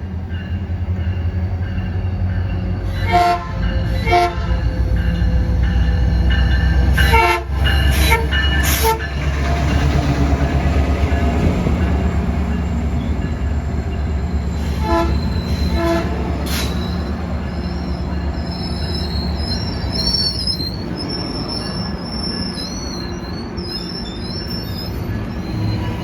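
Metrolink commuter train passing with a loud low rumble, its horn sounding a series of short blasts early on and twice more partway through. Near the end the rumble eases and high, wavering wheel squeals take over.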